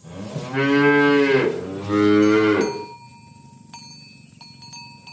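A cow mooing twice in a row: a long moo that rises and falls in pitch, then a shorter second moo. A few faint metallic clinks follow in the second half.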